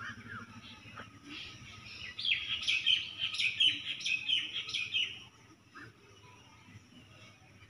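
Birds chirping, with a dense run of rapid chirps from about a second and a half in that lasts some three and a half seconds, and a few single chirps around it.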